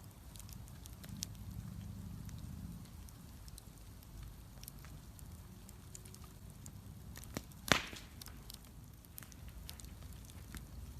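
Wood bonfire crackling, with scattered small pops over a low rumble of flames. One loud, sharp pop comes about three quarters of the way through.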